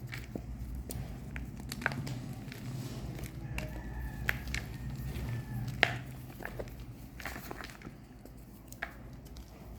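Reformed gym chalk bars being crushed: scattered, irregular crisp crunches and snaps, the sharpest a little under halfway through, over a low steady rumble.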